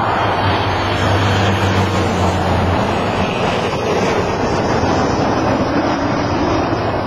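Loud road traffic passing close by, with wind buffeting the microphone; a low engine drone fades out about three seconds in.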